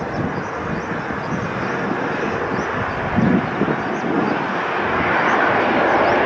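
Jet engine noise of an Airbus A350-900 approaching to land, a rushing noise that grows gradually louder as the airliner comes closer.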